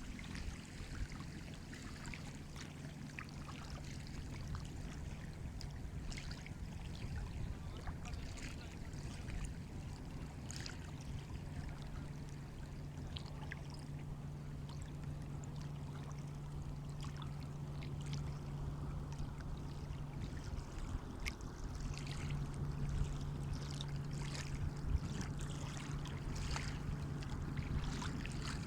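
Sea water washing and lapping, with scattered small splashes and a steady low hum underneath; it grows a little louder about two-thirds of the way through.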